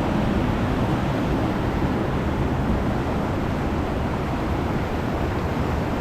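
Ocean surf washing onto a beach: a steady, deep rushing sound with no single wave standing out.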